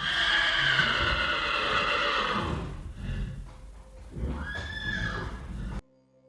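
Horse whinnying twice: a long neigh of about two and a half seconds, then a second shorter one near the end that cuts off suddenly.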